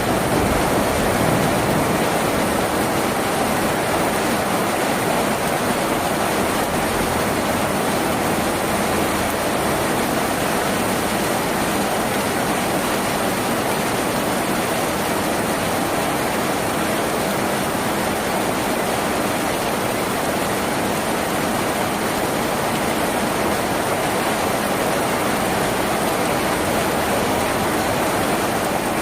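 Steady rain falling on a tin roof, an even, unbroken hiss of water.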